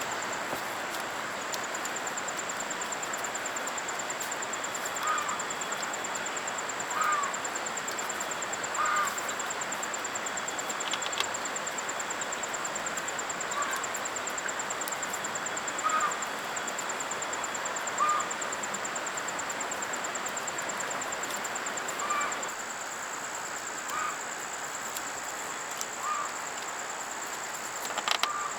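Outdoor ambience: an insect trills steadily at a high pitch, while a bird gives a short chirp about every two seconds over a constant hiss.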